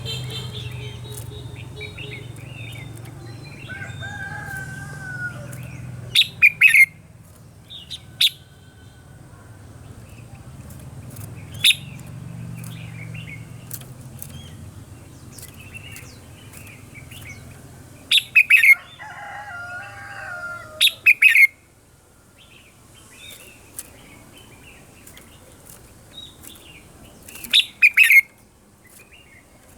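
Red-whiskered bulbul singing short warbling phrases, broken by several loud, sharp bursts of sound.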